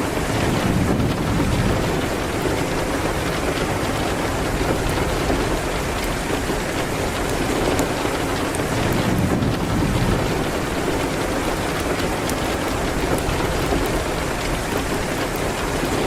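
Steady rain on a window, with faint scattered sharp ticks. A low rumble swells about a second in and again about nine seconds in.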